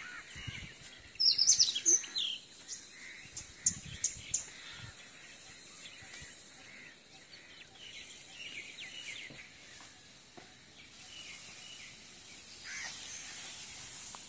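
Small birds chirping over a quiet outdoor background, with a short burst of high, quick calls about one to two seconds in and scattered faint calls after.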